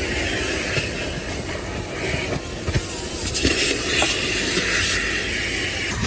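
Car wash vacuum hose running with a steady hissing rush of suction, a little louder in the middle as the nozzle works over the car's interior.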